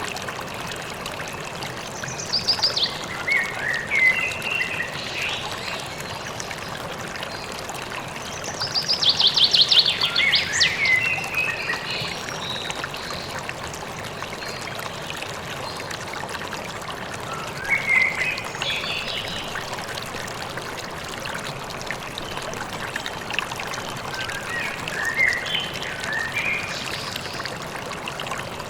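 A river or stream running steadily, with songbirds singing short phrases over it. The loudest is a quick run of rapid notes about nine to eleven seconds in, with further phrases near the start, around eighteen seconds, and near the end.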